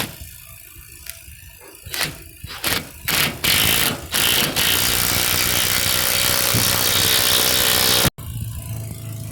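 A few scattered knocks, then a power screwdriver running in short bursts and then steadily for about four seconds, driving screws. It cuts off abruptly near the end.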